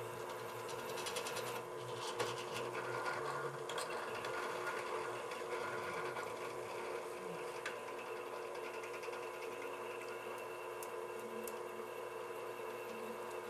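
Drill press motor running steadily, spinning a workpiece as a makeshift lathe, with a few brief scrapes and clicks.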